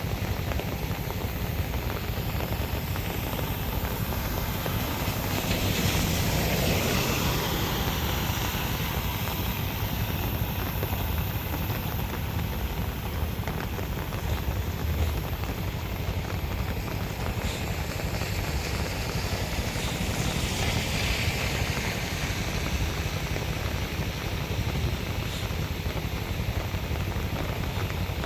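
Steady rushing noise of rain and flowing street water, swelling louder twice, about a fifth of the way in and again about three quarters of the way in.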